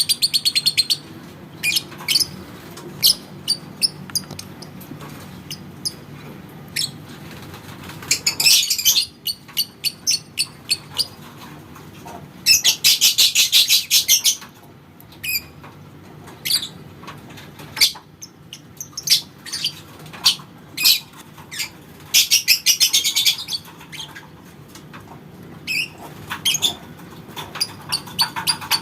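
Lovebird chattering in rapid, high-pitched trills (the 'ngekek' sought in song-competition birds), with single sharp chirps between them. The longest trills last about a second and a half, near the middle and again about two-thirds of the way through.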